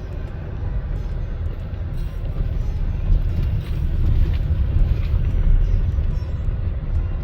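Car driving along a narrow road: a steady low rumble of tyres and engine, with scattered small knocks and rattles from bumps in the road.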